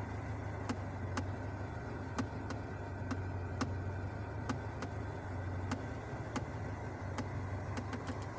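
GAZ-3110 Volga's carburetted ZMZ-402 four-cylinder engine idling with a steady low hum. Over it come irregular sharp ticks of raindrops striking the car's body, about a dozen or more, spaced unevenly.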